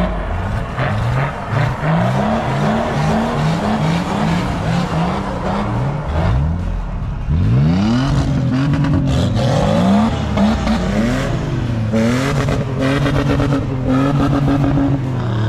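Off-road 4x4 engine revved hard in quick repeated rises and falls, about two a second, wheels spinning as the vehicle works through deep snow.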